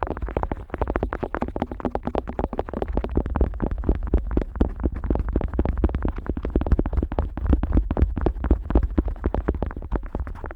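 An otoscope rubbed and scraped rapidly against the ear flap of a Neumann KU100 dummy-head microphone: a dense, unbroken run of close scratching strokes over a deep rumble of contact noise.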